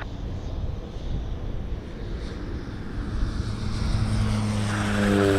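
Four-engine Boeing 747-400 jet engines rumbling and growing louder. About three and a half seconds in, a low droning tone joins the rumble and slides slightly down in pitch.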